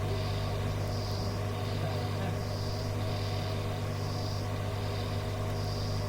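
Steady low electrical hum and hiss of a radio receiver's open channel between transmissions, with a faint high-pitched tone pulsing on and off irregularly.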